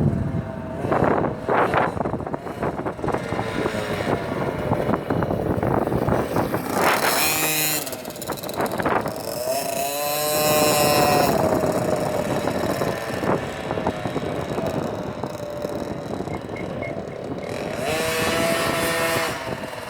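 Minibike's small engine running, its pitch rising and falling as it revs, with louder revs about seven, ten and eighteen seconds in.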